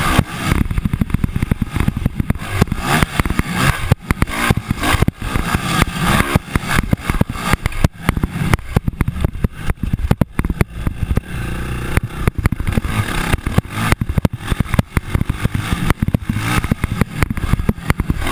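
Motocross dirt bikes running on the track, loud and uneven with many sharp spikes.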